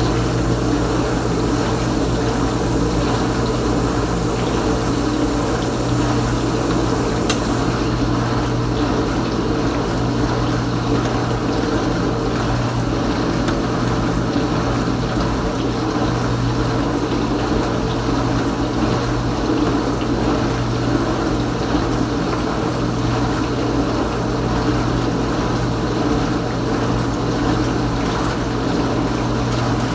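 Kenmore Ultra Wash dishwasher's wash pump running steadily, with water circulating and spraying inside the tub over a constant motor hum. A faint click comes about seven seconds in, after which the high hiss of the spray softens.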